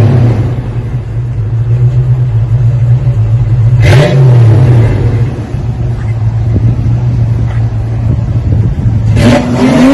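1989 Ford Mustang GT's 5.0-litre V8 idling with a steady low rumble through a 2.5-inch exhaust with an X-pipe and Flowmaster 40-style knockoff mufflers, revved briefly about four seconds in and again near the end.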